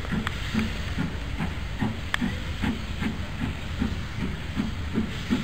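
Railtour passenger coaches rolling slowly past on the rails, with a steady hiss, an even beat about two and a half times a second, and scattered sharp clicks.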